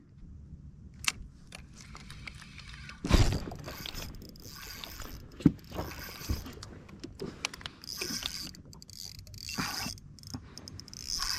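Fishing tackle handled on a kayak: a string of small mechanical clicks and rattles of a spinning reel and rod, with a louder rustling knock about three seconds in.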